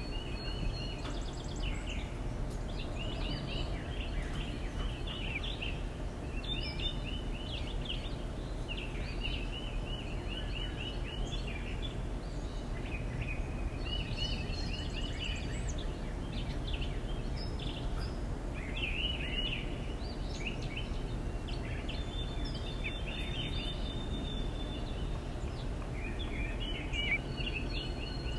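Backyard songbirds chirping and chattering in short repeated bursts, several overlapping, over a steady low background rumble.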